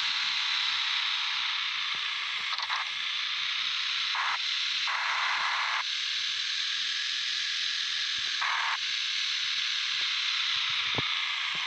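Steady hissing noise, with a few brief louder swells about three, four and a half, five and eight and a half seconds in.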